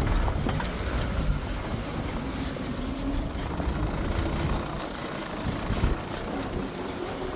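Safari vehicle driving along a jungle track: a steady engine note and a low rumble from the ride, with a few brief knocks.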